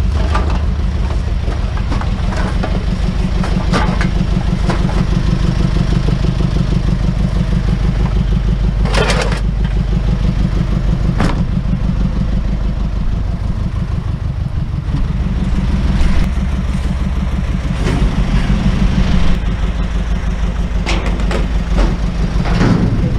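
Engine running steadily with a low, even throb. A couple of sharp knocks sound about nine and eleven seconds in.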